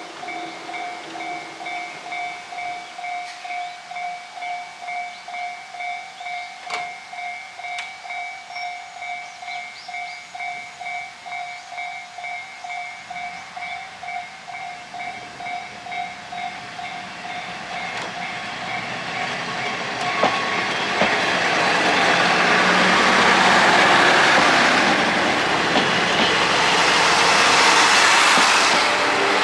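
Level crossing warning bell ringing in a steady pulse, a little over two strokes a second. From about two-thirds in, the running noise of the KiHa 30 and KiHa 38 diesel railcars builds and grows loud near the end, covering the bell.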